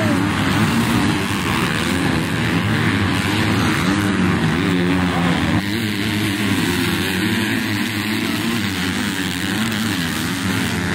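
Several pit bike engines revving up and down over one another, the pitch rising and falling constantly.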